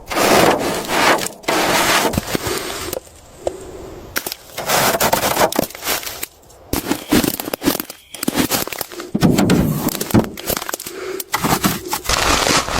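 Irregular scraping and crackling noises in short bursts, broken by several brief pauses.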